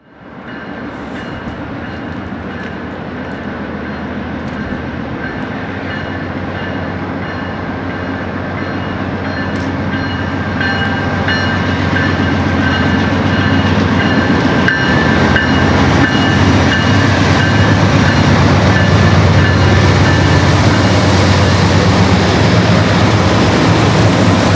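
Diesel locomotives hauling a loaded coal train approach and draw alongside, their engine rumble growing steadily louder throughout. A thin high whine rides over the rumble for much of the approach.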